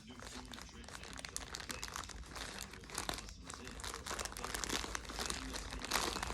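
Package wrapping crinkling and crackling as a parcel is opened and handled, growing louder and denser near the end.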